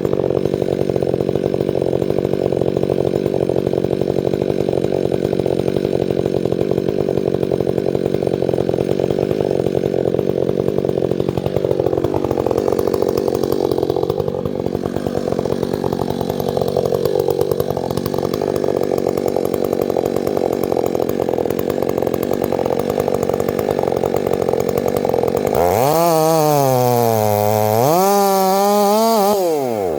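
Chainsaw engine running steadily. Near the end it revs, its pitch rising, dipping and rising again.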